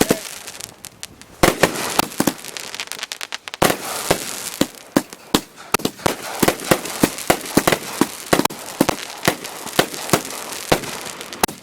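Consumer multi-shot fireworks cake firing: a rapid, irregular string of sharp bangs, several a second, with crackling between them. A brief lull comes about a second in, then the shots pick up again about a second and a half in.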